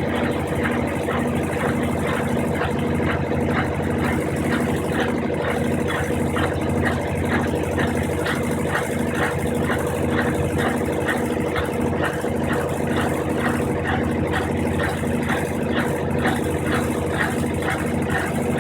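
Brastemp 15 kg washing machine running through its rinse and spin cycle: a steady motor hum with a regular pulsing about two times a second.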